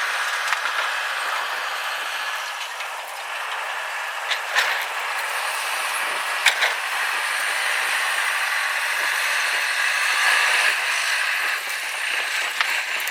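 Steady rushing road and wind noise inside a car driving through a snowstorm, with a few short clicks and knocks.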